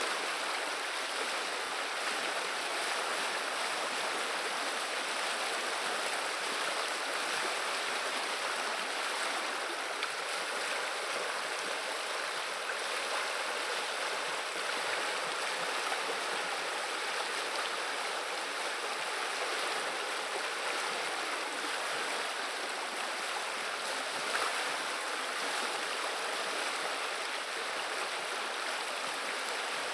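River water running in a steady, unbroken babble.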